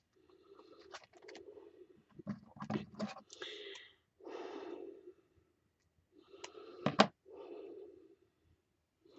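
Small clicks, taps and scrapes of little stick-on craft diamonds and their packet being handled and pressed onto a paper page, with a sharp click about seven seconds in.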